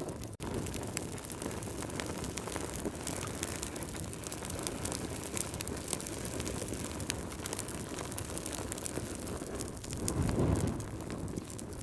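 Wood fire crackling: a steady low rumble of flames with many small, sharp pops and snaps scattered throughout. The sound cuts out for an instant about half a second in, and the rumble swells briefly near the end.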